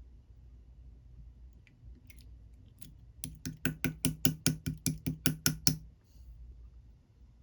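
A quick run of sharp knocks, about five a second, starting a little over three seconds in after a few scattered taps and stopping about two and a half seconds later.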